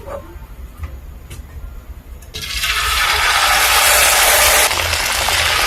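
Batter-coated carrot pieces going into hot oil. A few light clicks, then, a little over two seconds in, a loud, steady frying sizzle starts suddenly and keeps going.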